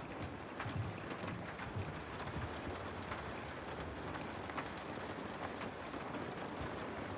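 Steady rain falling, with scattered individual drops tapping sharply over a constant hiss and a low rumble underneath.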